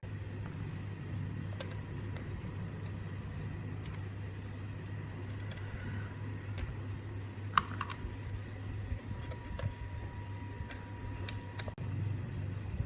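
Scattered light clicks and taps, a dozen or so spread irregularly, over a steady low hum.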